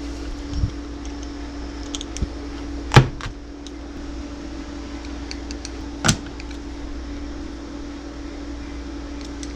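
Two sharp knocks about three seconds apart, with a few light clicks, over a steady hum with a fixed tone.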